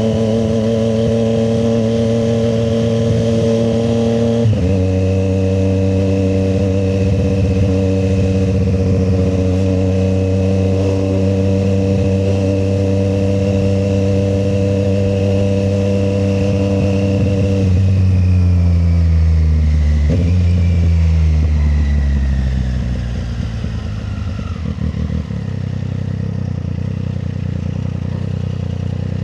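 Triumph Street Triple 765 RS's three-cylinder engine pulling at steady revs, with a gear change about four seconds in. About two thirds of the way through the revs fall away as the bike slows, with a downshift near twenty seconds, and the engine settles to a low, near-idle run toward the end.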